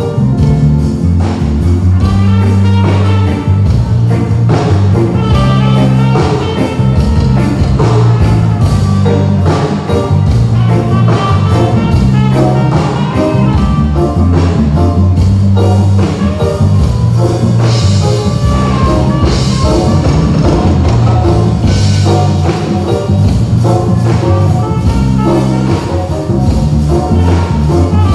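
Live band playing an instrumental passage over a PA system during a sound check, with a prominent bass line and drum kit.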